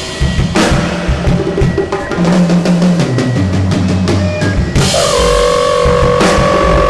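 Free-improvised ensemble music: a drum kit played loosely over a wandering low pitched line, with a big crash about half a second in and another near five seconds. After the second crash a steady held tone comes in and sustains under the drums.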